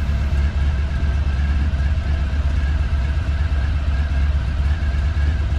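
Honda ST1100's V4 engine running steadily at cruising speed on the road, with a constant low rumble of wind and road noise.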